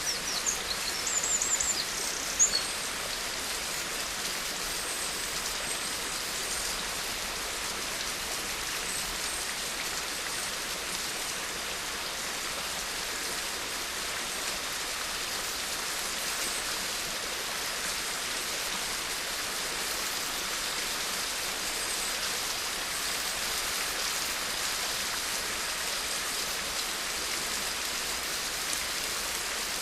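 Steady rain falling, an even hiss of drops. A few short high chirps and one sharp tick come in the first two seconds or so.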